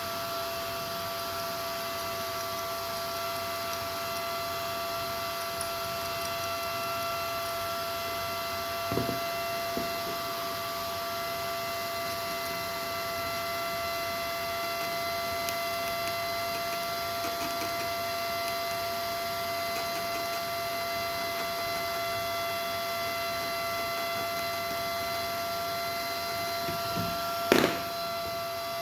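Steady electrical hum made of several fixed pitches, with a short knock about a third of the way in and a louder knock near the end.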